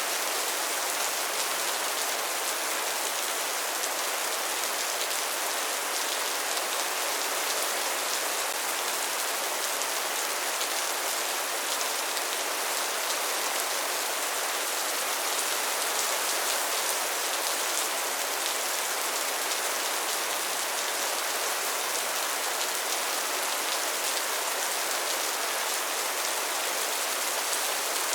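Rain falling steadily: an even hiss of many drops that does not rise or fall.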